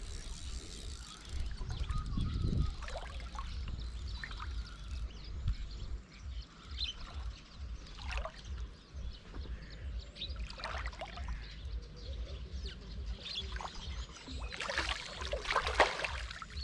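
Water splashing and trickling as a hooked carp is brought in and landed, with a louder burst of splashing near the end. A low rumble of wind on the microphone runs underneath.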